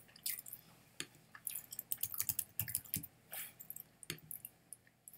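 Mouth chewing toast: irregular crunches and wet mouth clicks, several a second.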